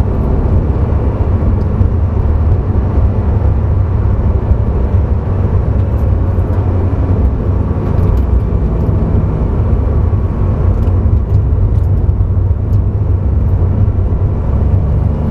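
Engine and road noise of a Porsche sports car at track speed, heard inside the cabin: a loud, steady drone with no big rises or drops in revs.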